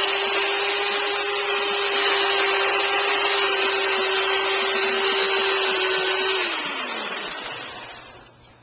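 A small electric motor runs at a steady high hum, then is switched off about six seconds in and winds down, its pitch falling as it fades out.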